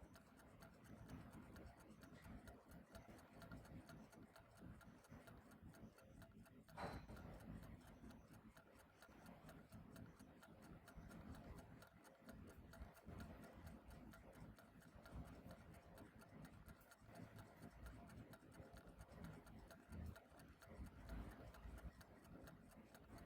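Faint, steady ticking of a clock over low room rumble, with one brief louder sound about seven seconds in.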